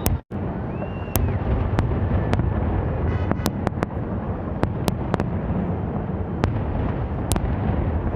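Fireworks going off: a dense crackle of sharp cracks over a steady low rumble of bursts, with a short whistle about a second in. The sound cuts out for a split second near the start.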